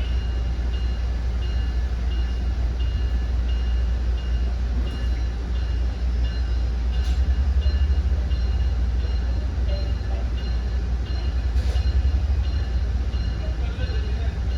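Commuter train on the exo Mascouche line: a steady low rumble, with a bell-like high ding repeating about every 0.7 seconds and a few short knocks.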